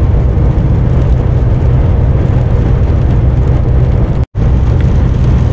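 Loud, steady drone inside a truck cab at motorway speed in a storm: engine, tyre and strong wind noise. The sound cuts out completely for an instant about four seconds in.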